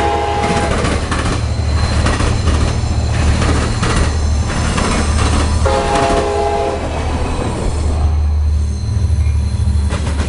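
Passenger train cars rolling past with wheels clacking on the track over a steady low rumble, while a train horn sounds twice: a blast ending under a second in and another of about a second, about six seconds in. Near the end the low rumble strengthens as a diesel locomotive approaches.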